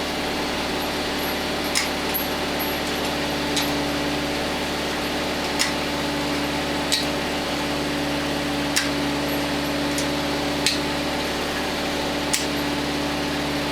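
Sharp clicks about every two seconds, like light metal tool strikes, over a steady mechanical hum with a constant tone.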